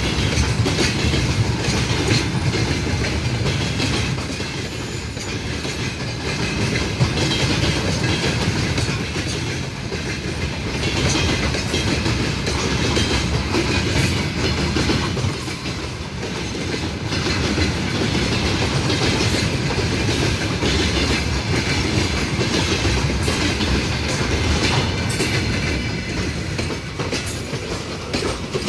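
A long train rolling past at close range, its wagon wheels clattering steadily over the rail joints, the sound easing slightly near the end.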